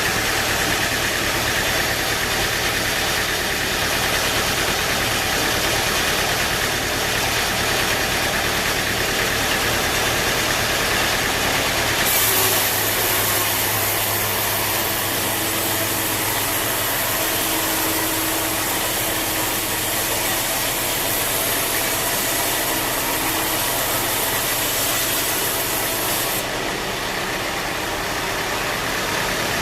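Sawmill machinery running steadily: a continuous engine-driven drone with a low hum. About 12 seconds in the sound shifts, with a brighter hiss and steady tones added, and it settles back about 26 seconds in.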